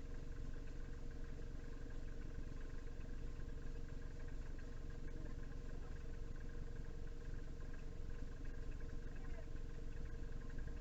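Steady low mechanical hum with a few faint, unchanging tones above it.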